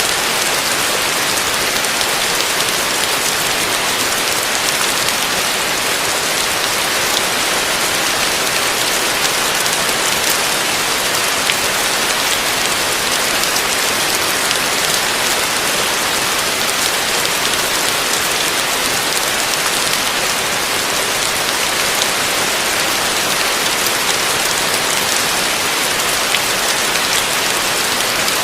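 Heavy rain falling steadily: a dense, even hiss with faint scattered drop taps.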